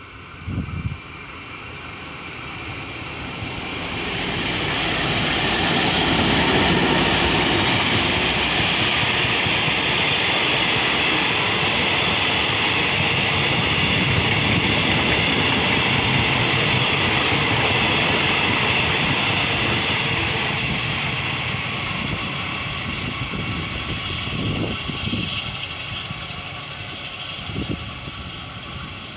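Diesel-electric Alsthom ADD locomotive and its train of coaches passing close by on the rails. The sound builds over the first few seconds, then the wheels on the rails roll past steadily for a long stretch, with clickety-clack over the rail joints, and fades away near the end.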